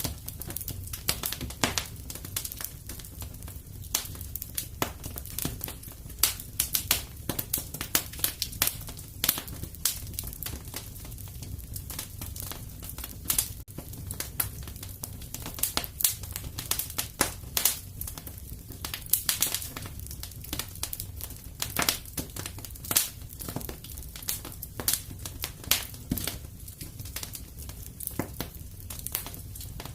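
Fireplace crackling: a wood fire's constant irregular pops and snaps over a low steady rumble of the burning fire.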